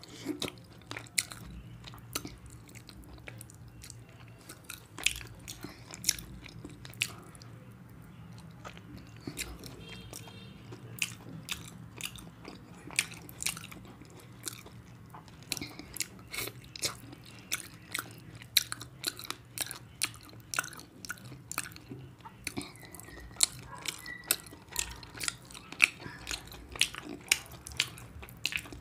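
Close-miked chewing and wet lip-smacking of a person eating rice and curry by hand, with many short sharp mouth clicks at an irregular pace. A faint steady low hum runs underneath.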